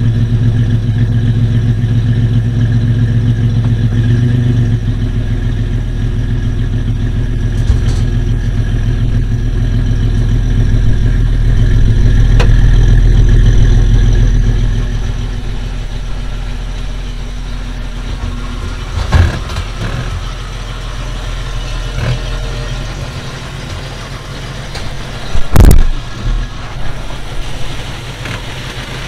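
Jeep Cherokee XJ engine running as the Jeep moves off a trailer, getting louder about halfway through and then dropping back. Two sharp thumps follow, the second and louder one a few seconds before the end.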